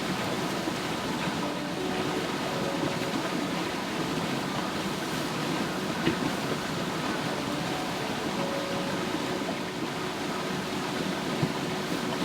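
Steady rain falling on a nylon tarp, an even hiss with a few sharp pops.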